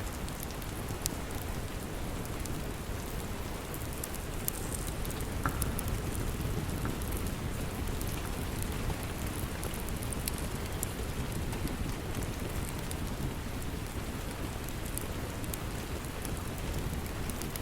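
Steady rain with the scattered crackles and pops of a wood fire in a fireplace.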